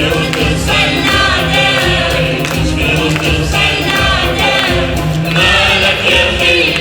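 Live music: a group of voices singing together in chorus over hand percussion and a steady bass line.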